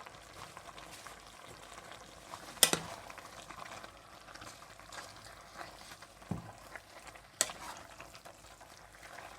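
Spinach and chicken in tomato sauce sizzling steadily in a pot while a spoon stirs it, with two sharp knocks of the spoon against the pot, about three seconds in and about seven seconds in.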